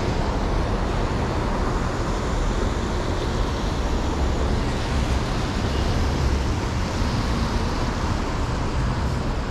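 Steady city street traffic noise: an even rumble of passing vehicles with no single standout event.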